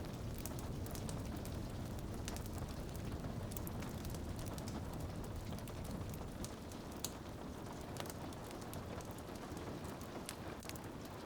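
Rain on a window mixed with a crackling log fire: a steady, low hiss and rumble, with sharp pops scattered through it about once a second, one louder than the rest about seven seconds in.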